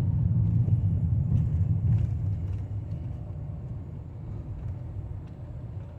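A van's engine and road noise heard from inside the cab while driving: a steady low rumble that grows quieter through the second half.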